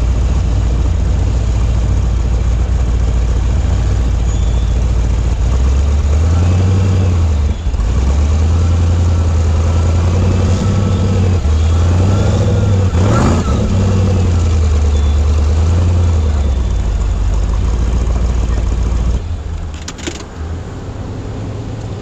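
Rock-crawling buggy's engine revving up and down over and over, with a sharp knock about halfway through. It drops to a quieter run near the end.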